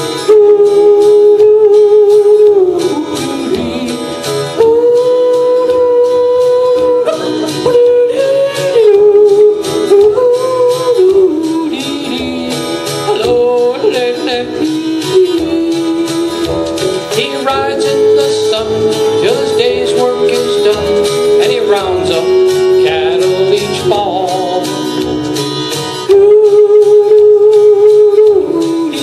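A man yodeling, holding long notes and breaking sharply between high and low pitches, over country backing music with guitar.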